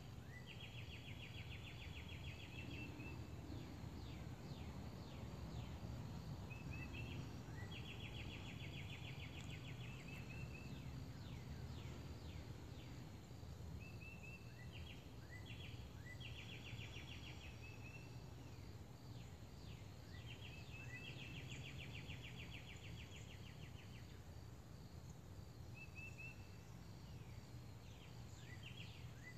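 Birdsong: repeated fast trills about two seconds long, recurring every few seconds, with short falling whistles in between, over a steady low rumble.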